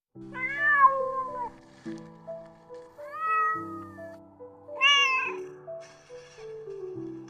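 A domestic cat meowing three times, each meow rising and then falling in pitch, over background music with a simple stepping melody.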